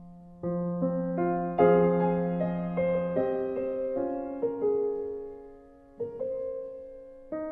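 Slow, soft piano music: notes and chords struck one after another and left to ring and fade, with a fresh chord about half a second in, a louder one a little later, and a new phrase starting near the end after a quiet dip.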